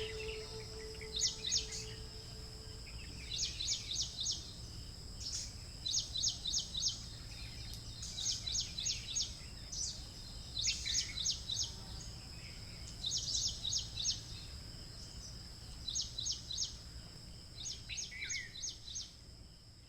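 A bird calling over and over, each call a quick run of three or four high chirps, repeated about every two seconds, over a steady high whine and a low background rumble.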